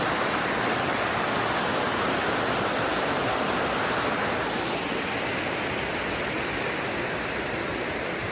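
Steady rushing of falling or fast-running water, an even hiss with no breaks, easing off slightly in the second half.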